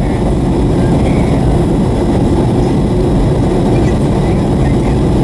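Steady low rumble of a Boeing 757-300 airliner heard from inside the cabin on approach: engine and airflow noise at an even level.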